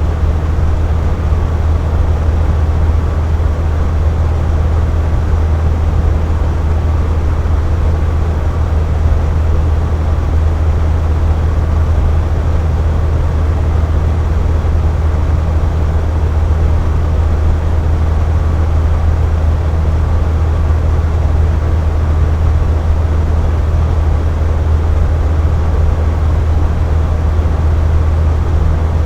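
Box fan running steadily: a constant low motor hum under an even rush of moving air, unchanging throughout.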